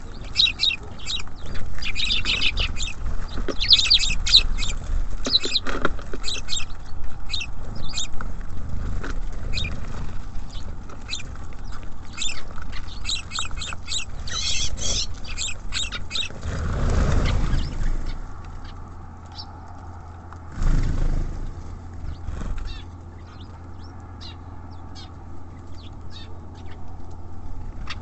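Small birds at a feeder chirping busily, with many quick short calls for the first two-thirds, then two low thumps about seventeen and twenty-one seconds in, after which the chirps thin out.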